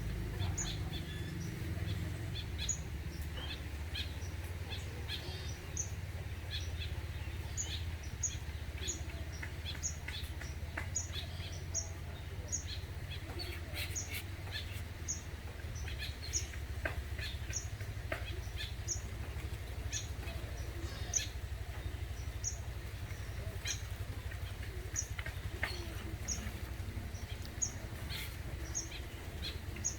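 A bird chirping over and over, short high chirps about once a second, over a low steady rumble.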